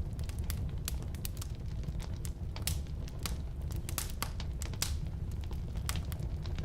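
Firewood burning in a fireplace: irregular sharp crackles and pops, several a second, over a steady low rumble of the flames.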